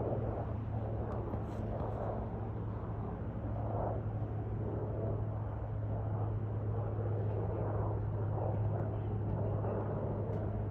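Aircraft engine noise: a steady low drone under a rushing rumble that swells and eases every second or two.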